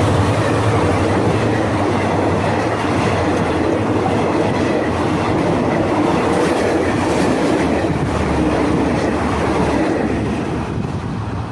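Railway cars of a train hauled by an SRT GEA diesel-electric locomotive rolling past, wheels clattering over the rail joints with a steady rush of noise. A low engine hum is heard at the start, and the sound fades near the end as the train moves away.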